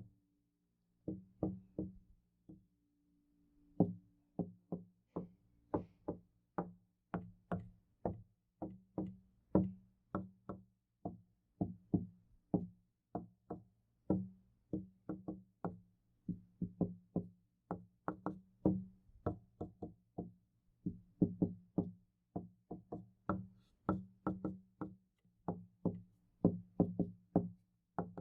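Knocking on a door, many sharp knocks at about three a second in uneven runs, each with a low, hollow ringing from the door panel. There are two brief pauses in the first few seconds.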